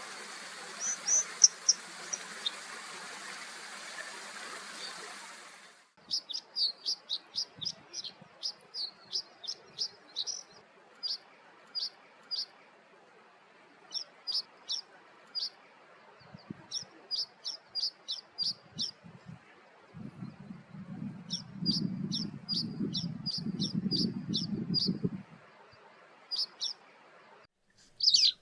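A bird calls in series of short, high, sharp notes, several a second, with pauses between the series. Over the opening seconds the notes come against a steady hiss. Past the middle, a low rumble runs under the calls for a few seconds.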